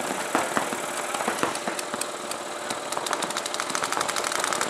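Airsoft guns firing during a skirmish: scattered single shots, then from about three seconds in a fast, even string of rapid fire, over a steady engine-like drone.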